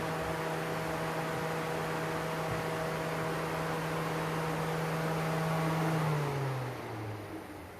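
A steady machine hum that drops in pitch and dies away about six to seven seconds in, a motor spinning down to a stop.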